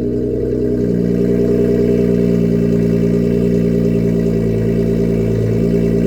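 Honda Accord J-series V6 idling steadily just after a cold start, running through a 3-inch exhaust with its electric cutout valve open.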